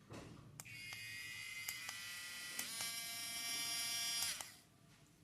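A handheld mini grinder's small electric motor runs with a steady high whine for about four seconds. Its pitch steps once partway through, and then it cuts off.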